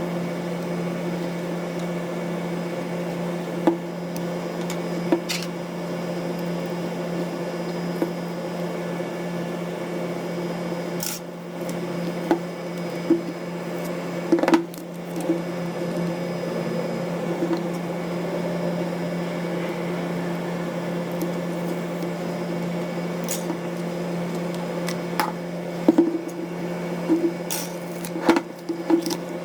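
Small clicks and taps of tools and parts being handled while a Canon EOS-1D X Mark III camera is taken apart, scattered irregularly and more frequent near the end, over a steady low hum.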